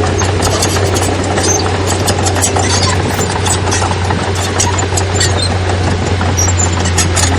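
Heavy diesel earthmoving machinery running steadily with a deep low drone, overlaid by frequent sharp clicks and rattles.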